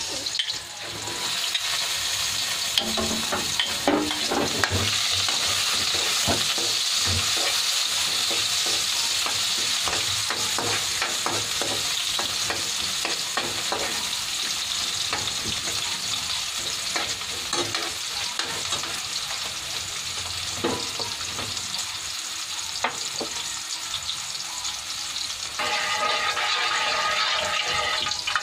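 Chopped garlic and onion sautéing in hot cooking oil in a steel wok: a steady sizzle, with a metal spoon clicking and scraping against the pan as it stirs. Near the end a louder, fuller noise joins in.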